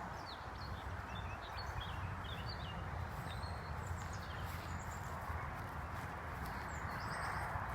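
Small birds chirping in short, quick calls, in two spells, over a steady rushing background noise with a low rumble.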